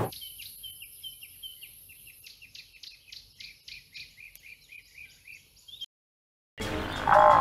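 Small bird chirping over and over, short high chirps about two to three a second, thin and faint over a light hiss. Near the end, after a moment of silence, a much louder sound cuts in.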